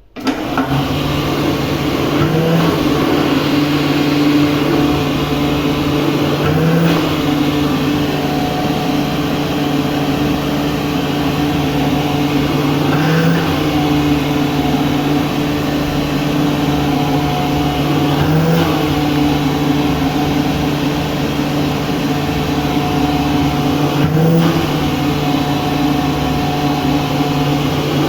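Electric dryer switching on and running with a steady motor-and-fan hum. The hum briefly lifts in pitch every five to six seconds.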